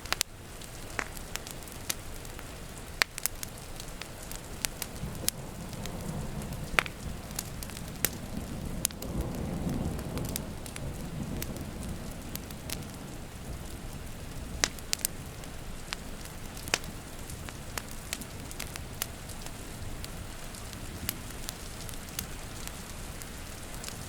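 Wood fire crackling with scattered sharp pops over steady rain. A low roll of thunder swells and fades about a third of the way through.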